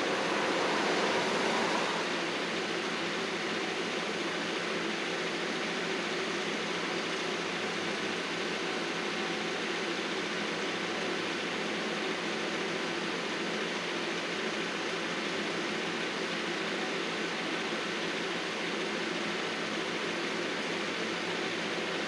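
Engine of heavy landscaping equipment running steadily, a little louder for the first two seconds.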